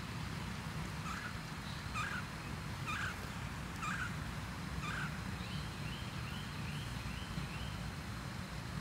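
Birds calling: five short calls about a second apart, then a quick run of about six higher notes, over a steady low rumble.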